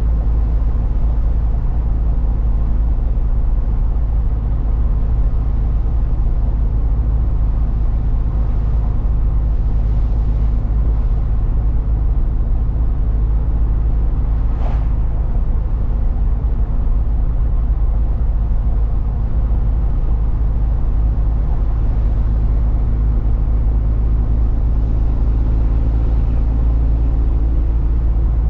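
Truck engine and road noise heard from inside the cab while driving: a steady low drone with constant engine tones, and one short click about halfway through.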